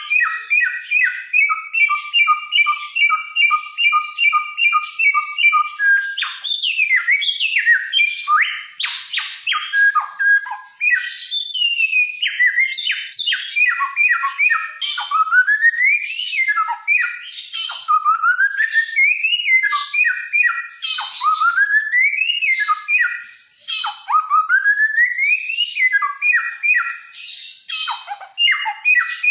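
Samyong, a songbird of Nusa Tenggara, singing loudly and without pause. For about the first six seconds it gives a fast run of alternating high and low notes, then a varied string of whistles, rising glides and short chirps.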